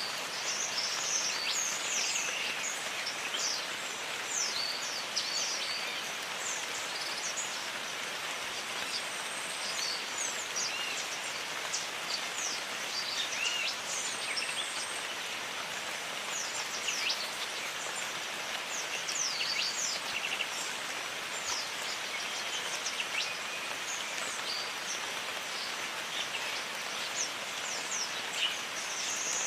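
Steady rain hiss with many birds calling over it, mostly short, quick, high whistles that sweep downward, scattered all through.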